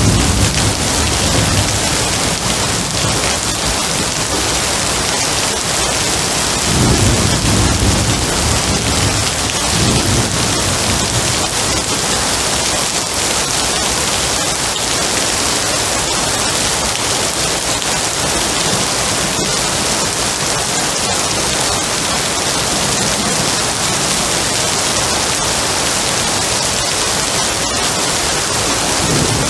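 Steady heavy rain, with low rolling thunder near the start and again about seven and ten seconds in.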